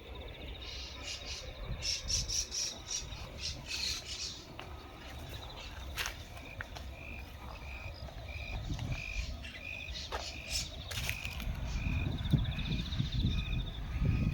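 A flock of birds calling: many short, high chirps at first, with a buzzy trill coming and going. From about six seconds in, one short note repeats evenly about twice a second.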